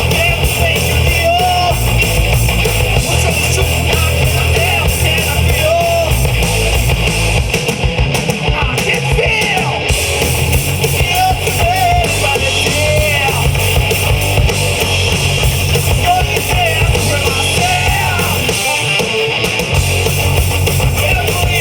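Live rock band playing loud distorted electric guitars over bass and drums, with a lead guitar or voice line bending in pitch.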